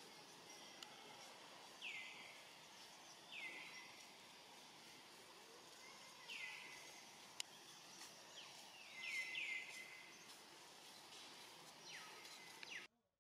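Faint outdoor background with short, downward-sweeping bird calls repeating every second or two, three in quick succession about nine seconds in. A single sharp click sounds a little past seven seconds.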